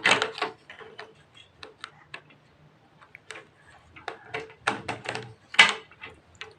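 Hard objects, likely tools, being handled with a scatter of light clicks and ticks. Louder knocks come at the very start and in a cluster about five seconds in.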